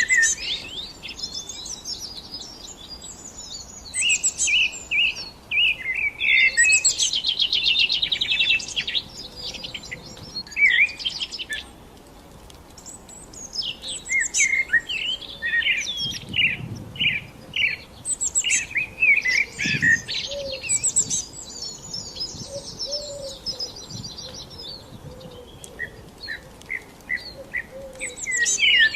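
Songbirds singing: bouts of varied high chirps and rapid trills, with a short lull a little before the middle.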